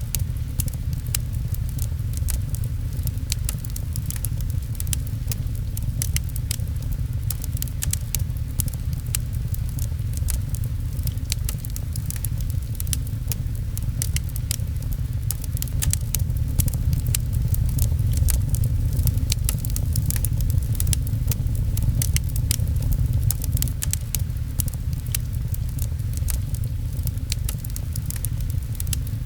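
Fireplace crackling, with frequent sharp pops and ticks over a steady low rumble, mixed with rain; the whole bed holds steady throughout.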